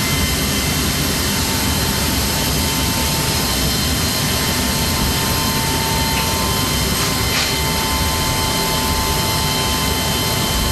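Aircraft jet turbine running steadily: a loud, even rush with a constant high-pitched whine.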